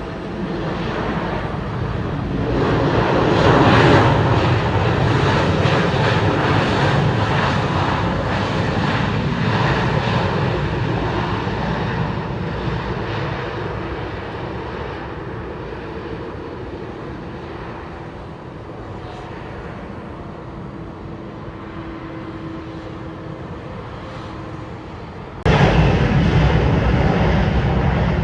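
Jet engine noise of an Airbus A319 going by, growing to its loudest about four seconds in, then slowly fading. Near the end it cuts abruptly to loud engine noise from a Boeing 737 MAX 8.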